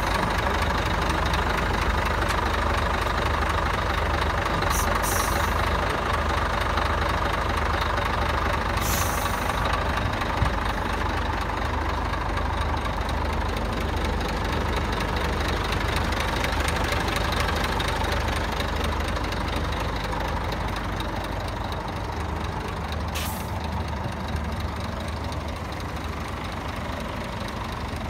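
Scania truck's diesel engine idling steadily, with a few short hisses (about five, nine and twenty-three seconds in) and a slight drop in level over the last few seconds.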